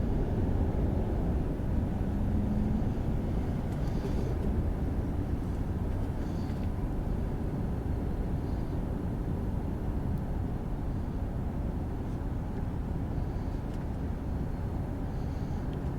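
Jet airliner's engines rumbling steadily as it climbs away after takeoff, slowly fading.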